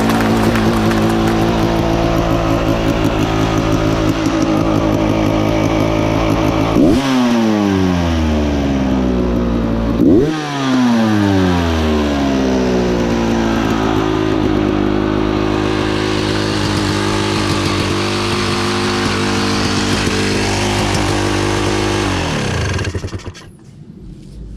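Dirt bike engine running, blipped twice to a sharp rev that falls slowly back to idle. Near the end the revs sink and the engine stalls.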